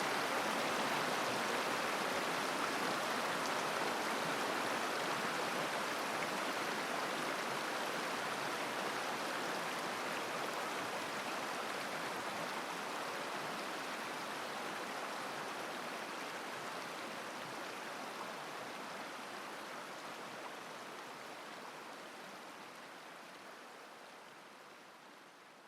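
Mountain river flowing over rocks, a steady rushing babble that fades gradually away toward the end.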